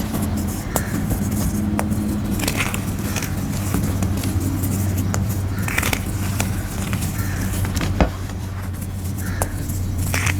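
Pressed grey gym chalk shapes being crushed, giving a run of crisp crackles and small snaps, with one sharp snap about eight seconds in. A steady low hum runs underneath.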